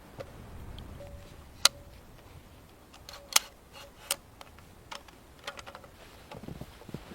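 Scattered sharp clicks and knocks, three of them clearly louder than the rest, some followed by a faint brief ring.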